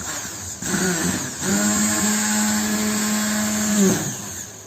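Electric blender running through egg yolk and vinegar, the first stage of making mayonnaise. The motor steps up in speed during the first second and a half, holds a steady hum, then winds down and stops near the end.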